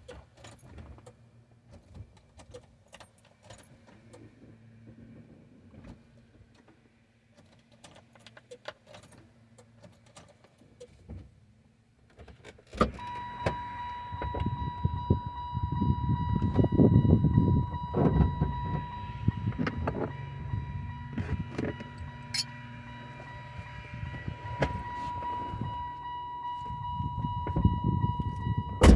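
Keys jangling and scattered clicks, then a steady high-pitched tone comes on about halfway through with a low mechanical rumble that swells twice: a car that won't start being tried.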